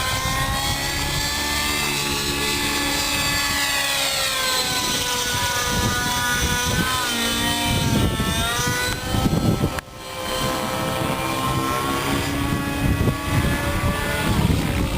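RAVE ENV nitro RC helicopter in flight, its glow nitro engine and rotor blades making a high whine whose pitch keeps sweeping up and down with the manoeuvres. The sound dips sharply for a moment just under ten seconds in.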